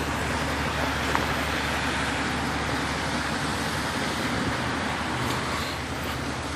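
Steady motor-vehicle noise: an even low engine hum under a constant hiss, with no change in pitch.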